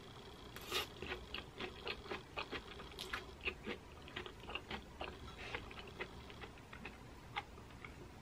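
Close-up mouth sounds of eating zucchini noodles in pesto with pine nuts: soft, wet clicks and smacks of chewing and slurping, several a second and irregular.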